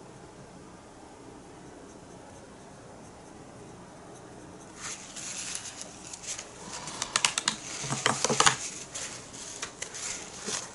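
Paintbrush working acrylic paint: scratchy brush strokes and light taps begin about five seconds in and grow busier. Faint room hiss before that.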